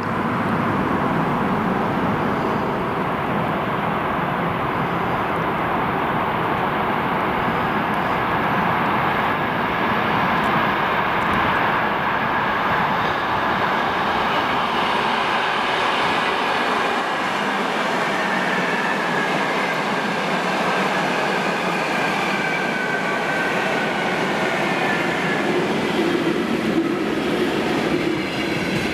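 Freight train hauled by a VL11 electric locomotive rolling past, with steady wheel-on-rail rumble and clatter. Faint high wheel squeal comes and goes through the middle and later part.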